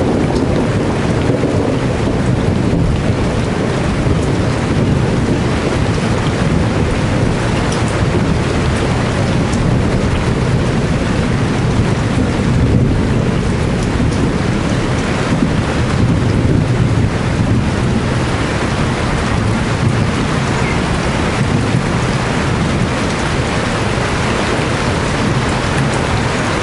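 Heavy rain falling steadily, a dense even hiss with a constant low rumble underneath.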